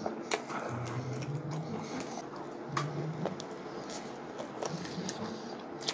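Close-miked biting and chewing of a fried chicken drumstick, with sharp crunches of the coating at scattered moments and a few short low hums between them.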